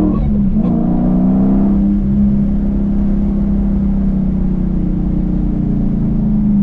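Dodge Challenger V8 exhaust under way on a backroad. The engine note dips briefly about half a second in, then holds steady, rising slightly near the end.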